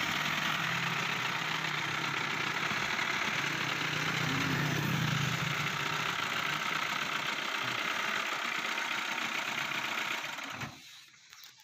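Mahindra Bolero's diesel engine idling steadily, cutting off abruptly near the end.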